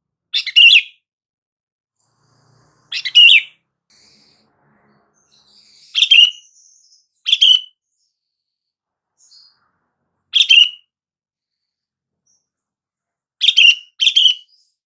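Sooty-headed bulbul (kutilang) giving short, bright calls, seven in all, a few seconds apart, with two in quick succession near the end.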